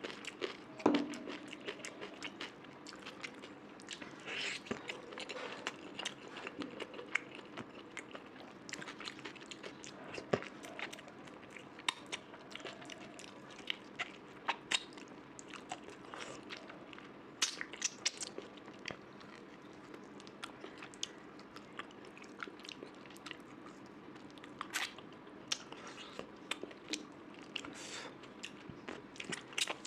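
A person eating curry and rice close to the microphone: irregular wet mouth clicks and smacks of chewing and biting, with a sharper click about a second in.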